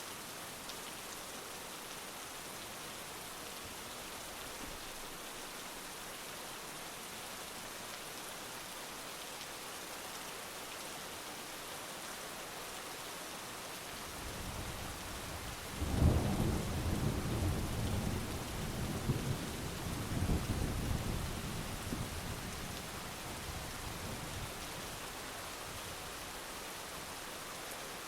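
Steady heavy rain with a roll of thunder. A low rumble builds about halfway through, breaks into a loud peal, and rumbles on in waves for several seconds before fading back under the rain.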